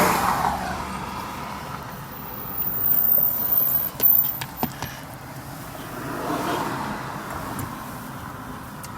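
Road traffic: steady car noise that swells twice, about three seconds in and again about six seconds in, with a few sharp clicks around four seconds in.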